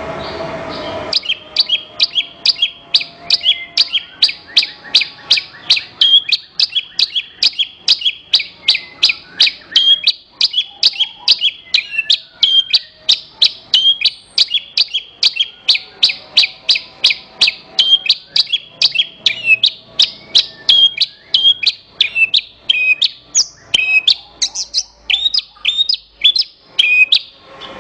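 Javan bush lark (branjangan) song: a fast string of sharp, high chirps repeated about three times a second, starting abruptly about a second in after a short stretch of different background noise.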